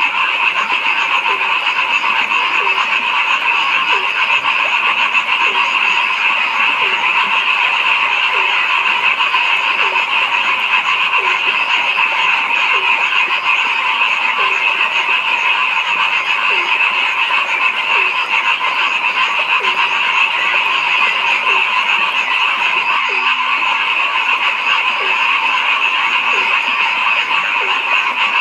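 A dense, steady chorus of many frogs calling together. Through it, a deeper croak repeats at a regular pace, a little faster than once a second. There is a brief break in the sound about three-quarters of the way through.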